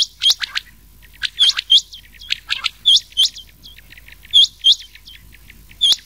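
Quail calls from a rain quail and common quail mix: short, sharp whistled notes repeated in quick bursts, many of them in pairs, with brief gaps between. This is a lure recording for calling in quail.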